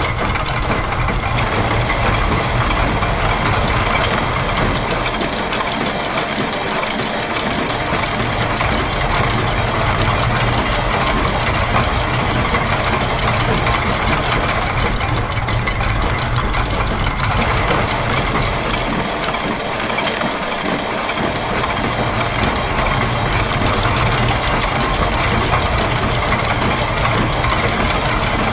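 Dense, steady soundscape of looped factory machine sounds layered over one another: a continuous mechanical hum and clatter of gears, presses and ratchets.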